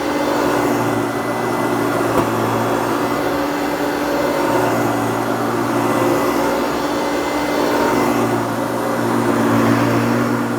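A refurbished 1980s Hoover TurboPower U2332 upright vacuum cleaner running steadily, its motor in good condition. The motor hums steadily, with a low tone that wavers every couple of seconds.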